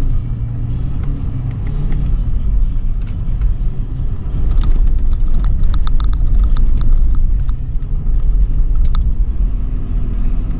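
The 2013 Toyota 4Runner's V6 engine and running gear rumble steadily as it drives over sand dunes, getting louder about four seconds in. Short sharp ticks and squeaks come in the middle stretch.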